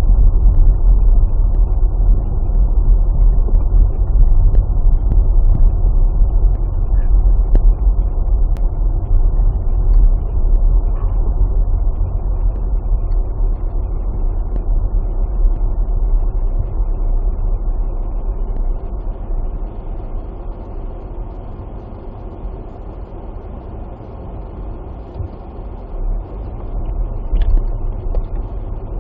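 Low, steady rumble of a car in motion heard from inside the cabin, with no distinct events; it eases off somewhat in the second half.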